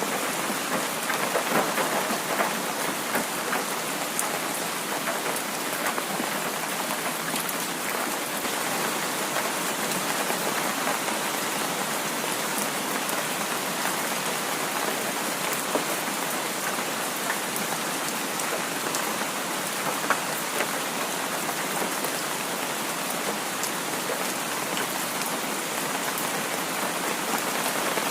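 Heavy rain falling steadily: a dense, even hiss speckled with fine ticks of individual drops.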